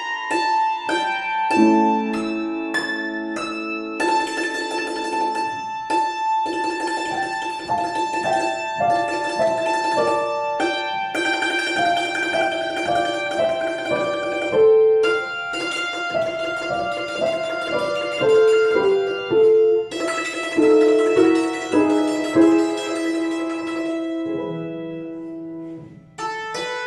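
A string instrument, plucked or struck, playing a quick running melody of short notes over a piano accompaniment.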